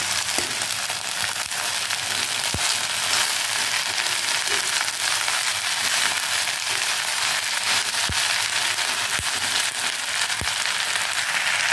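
Freshly chopped okra frying in hot oil: a steady sizzle just after it is tipped into the pan, with a few light knocks as it is stirred with a metal slotted spoon.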